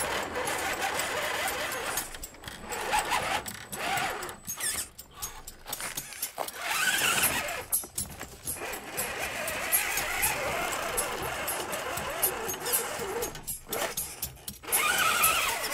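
Radio-controlled scale crawler truck running on the trail: a small electric motor and gears whining in start-stop spurts, with scrabbling noise from the ground.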